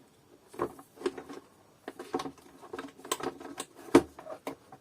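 Irregular clicks and knocks of the Kärcher DS5500 vacuum cleaner's plastic parts being handled and pried apart, with the loudest knock about four seconds in.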